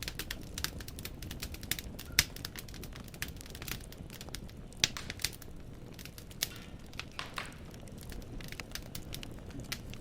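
Wood fire in a fireplace crackling: logs snapping with irregular sharp pops over a low steady rumble of the flames, the loudest pops about two seconds in and near the middle.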